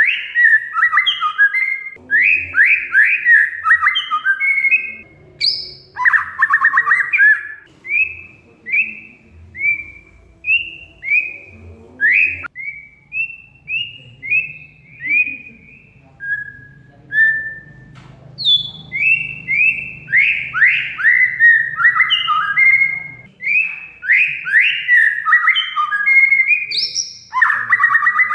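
Oriental magpie-robin (kacer) singing a loud, varied song: fast runs of sharp falling whistled notes, broken around the middle by a few short single whistles before the rapid runs resume.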